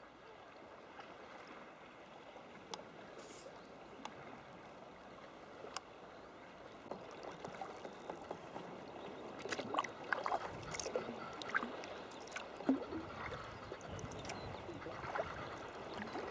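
Sea kayak on the move: the paddle dipping and water lapping and gurgling at the hull, getting busier from about halfway. Through it come irregular cackling calls of northern fulmars nesting on the cliffs.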